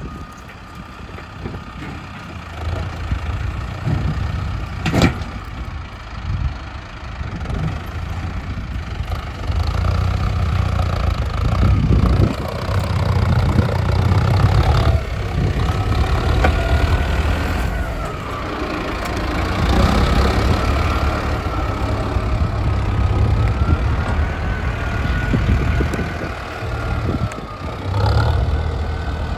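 Mahindra Arjun Novo 605 DI tractor's four-cylinder diesel engine running under varying load, its level rising and falling. A single sharp click comes about five seconds in, and a wavering whine rides over the engine through the second half.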